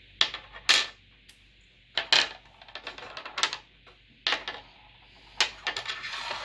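Light metallic clicks and clinks of a flat-head screwdriver against metal, about ten spread irregularly, some with a faint high ring.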